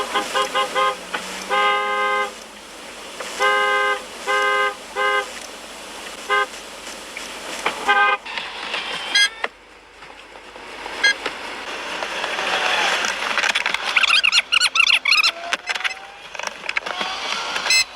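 Car horn honking: a run of quick toots, then several longer blasts, thinning to single short toots by about eight seconds in. After that comes a swelling rush of road noise with a quick cluster of sharp knocks about three-quarters of the way through.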